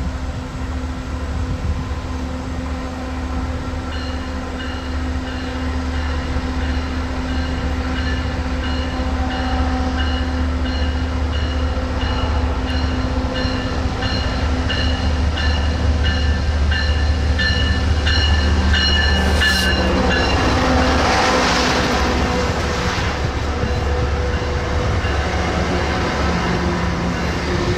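A passenger train approaching and passing. A low rumble grows slowly louder, a high ringing repeats in quick strokes from a few seconds in, and a rush of wheels on rails comes about twenty seconds in as the train goes by.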